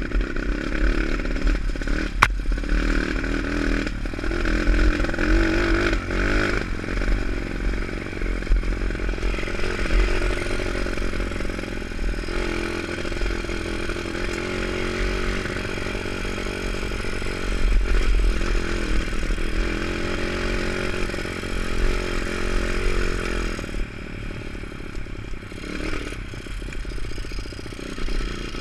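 Pit bike's single-cylinder four-stroke engine revving up and falling back over and over as it is ridden, with a sharp click about two seconds in.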